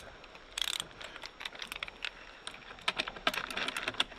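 Ratchet torque wrench clicking in short, irregular runs of small clicks as it is set and worked on bolts.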